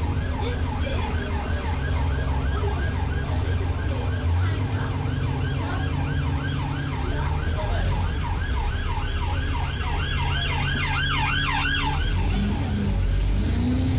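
Police car siren on a fast yelp, sweeping up and down about three times a second, with a second, higher yelp overlapping near the end. Under it, the steady low drone of an Alexander Dennis Enviro 400 bus engine.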